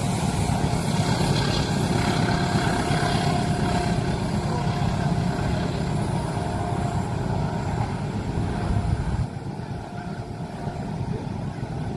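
Train passing at a level crossing: a steady, heavy low rumble of wheels on rail that drops away suddenly about nine seconds in.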